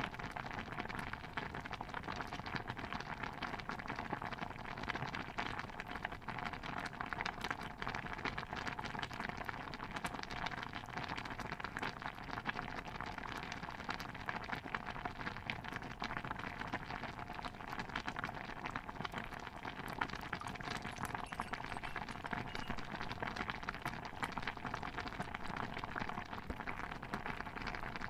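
Stew bubbling steadily in a pot: a dense, even patter of small pops that keeps up without a break.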